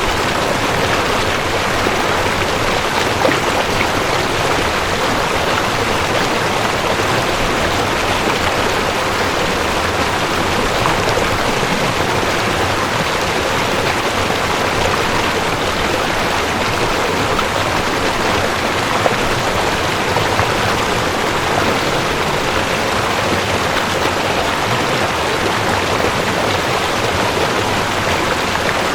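Mountain stream rushing over rocks, a steady, unbroken wash of water noise.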